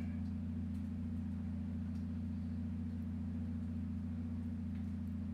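A steady low hum, an even tone with overtones that does not change.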